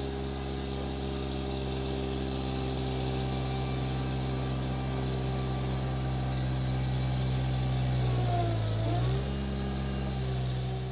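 Vehicle engine running steadily. About eight seconds in, its pitch dips briefly and then comes back up, as if under load or shifting.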